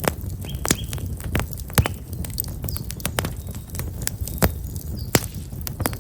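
Wood fire of black locust logs crackling, with frequent sharp irregular pops over a low steady rumble. A small bird chirps briefly under a second in.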